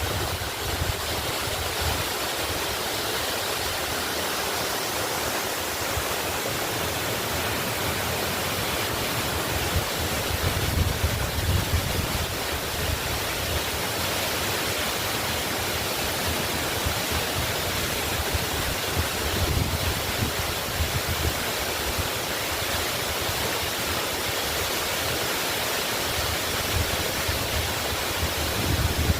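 Waterfall rushing steadily, a constant even roar of falling water, with brief low rumbles now and then.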